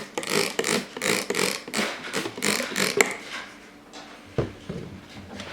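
Knife blade stroked back and forth on a King Deluxe 300 grit waterstone, about three scraping strokes a second. The strokes stop about three and a half seconds in, followed by a couple of sharp knocks and quieter scraping.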